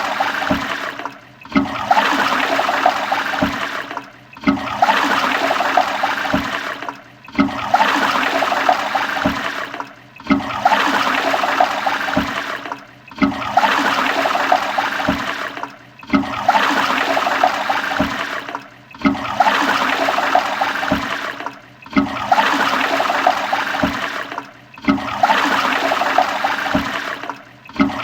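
Toilet flushing: a rush of water with low knocks in it, starting suddenly and cut off after about three seconds, repeating over and over at an even pace as a loop.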